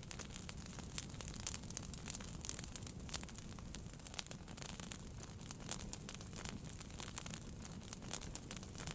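Wood fire burning in a fireplace, crackling and popping at irregular intervals over a low steady rumble, with a few sharper pops standing out.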